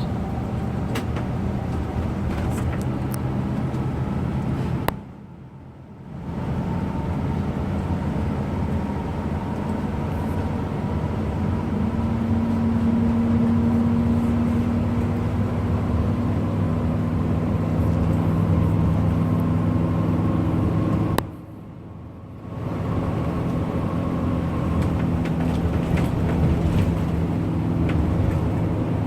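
Bus engine running under way, with steady road noise and a low engine note that rises a little about twelve seconds in. Twice the sound drops away for about a second, about five seconds in and again after twenty seconds.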